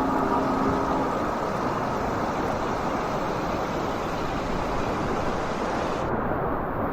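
Steady rush of river water, an even noise with no pitch. About six seconds in it turns suddenly duller as the higher hiss drops away.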